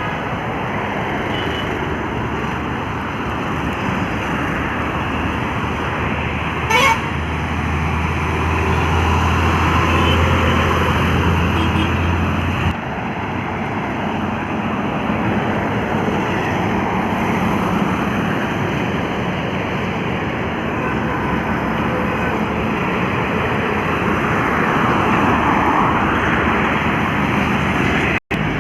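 Highway traffic noise from heavy trucks going by: a steady rushing drone, with a deep engine hum for about five seconds in the first half. A short horn toot sounds about seven seconds in.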